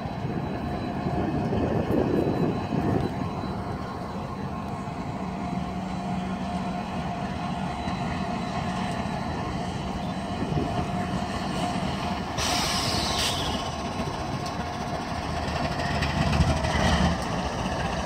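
A train rolling past on the rails with a steady rumble, and a short high hiss about twelve seconds in.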